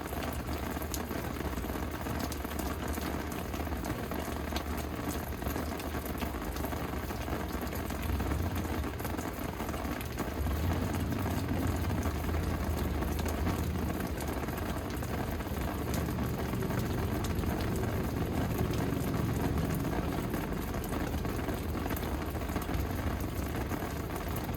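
Steady rain falling: a dense, even hiss sprinkled with fine drop ticks. Beneath it runs a low rumble that grows louder about a third of the way in.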